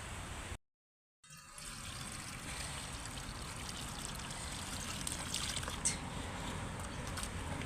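Water trickling and pouring steadily, with a few sharp clicks about five to six seconds in. The sound cuts out completely for about half a second near the start.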